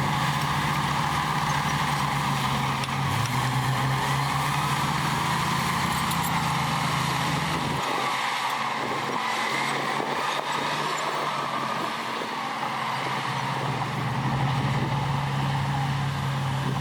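Heavy diesel engine of earthmoving machinery running steadily, with a steady higher-pitched noise throughout. Its low drone drops away about halfway through and comes back near the end.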